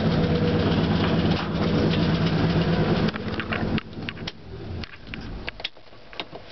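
Ford F-100 pickup's engine running steadily just after a cold start following weeks of sitting, then cutting off about three and a half seconds in. Only a few faint clicks follow.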